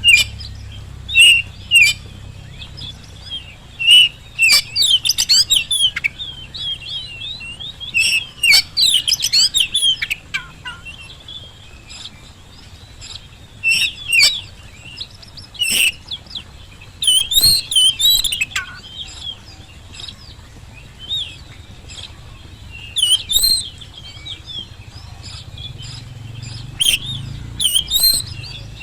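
Oriental magpie-robin (kacer) singing: short bursts of quick, varied whistles and chattering notes, each phrase a second or two long, with pauses between them.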